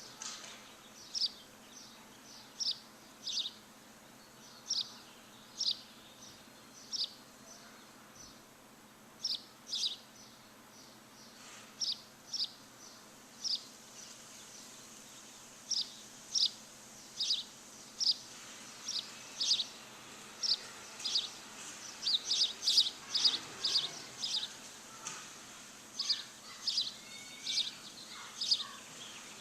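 A bird chirping: short, high, falling chirps repeated about once a second, crowding into a quick run about two-thirds of the way through, over a faint steady background hiss.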